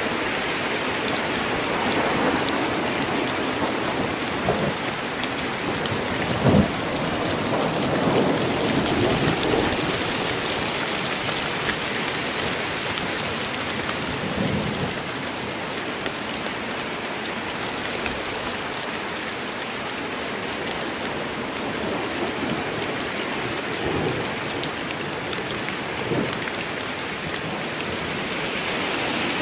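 Steady heavy rain falling in a forest, an even hiss, with a sharp crack about six and a half seconds in and a few low rumbles of thunder through the rest.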